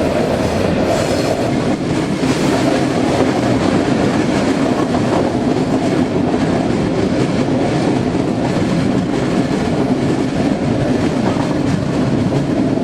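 Train running along the track: a steady rumble of wheels on rails that holds unbroken throughout.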